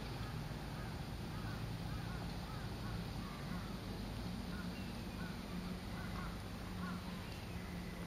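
Faint bird calls, a scattered series of short notes, over a low steady hum.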